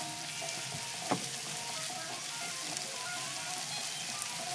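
Chicken and pork curry sizzling steadily in a big skillet over a hot barbecue fire, with one sharp tap about a second in.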